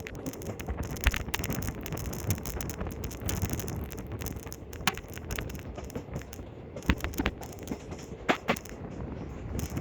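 Train running: a steady rumble with scattered clicks and knocks, and wind on the microphone.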